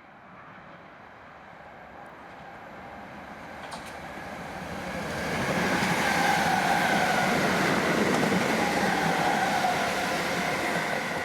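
A train approaching and running past, building steadily to its loudest about halfway through and then just starting to ease, with a whine of two tones sliding slowly lower in pitch over the rumble of the wheels.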